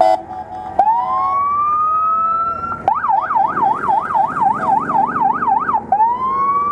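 Police motorcycle siren: a short blast at the start, then a rising wail that holds, switching about three seconds in to a fast yelp of about four cycles a second, then winding up into a wail again near the end.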